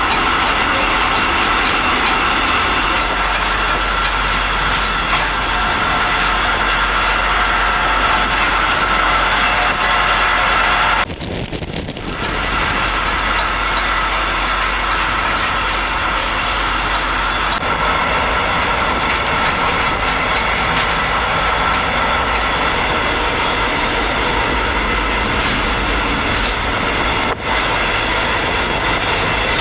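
Train running along the rails, heard from on board: a loud steady rush and rumble with several held high tones running through it. The sound briefly drops away about eleven seconds in.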